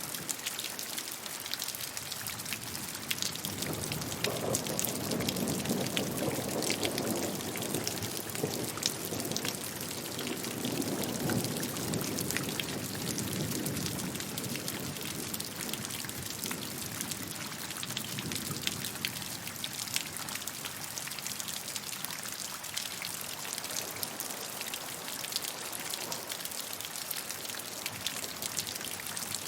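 Steady rainfall, a constant hiss full of individual drops pattering on a surface. A lower, fuller rushing swells up about four seconds in and fades again after about ten seconds.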